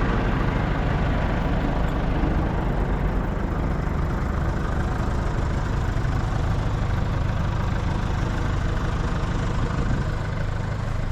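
Telehandler diesel engine running steadily with a low rumble, close by.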